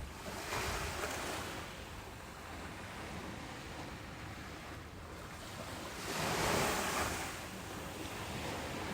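Ocean waves breaking and washing up a beach: a steady surf hiss with two swells, a small wave early and a bigger one about six seconds in, over a low rumble.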